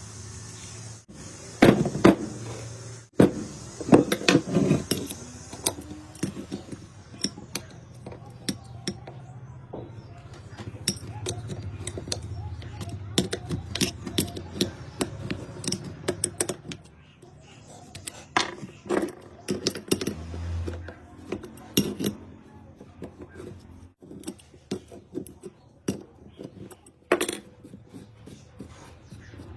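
Irregular metallic clinks, taps and knocks of hand tools and metal parts being handled during a repair, some loud and sharp, with no steady rhythm.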